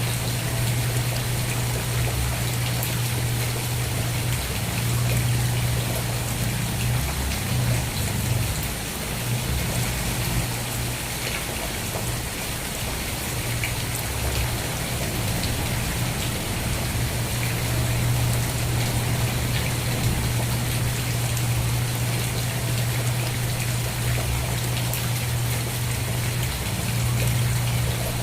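Steady rain falling as an even hiss of drops. A constant low hum runs underneath; it wavers and weakens for several seconds about a third of the way in.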